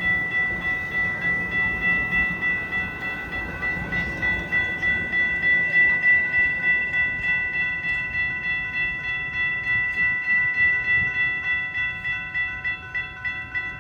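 Railroad crossing warning bell ringing in rapid, even strokes with a steady ring between them, sounding while the crossing's gates are down.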